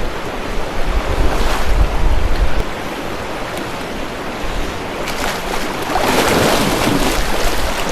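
Rushing river water with a person splashing in it while bathing, the splashing louder from about five seconds in. Wind buffets the microphone.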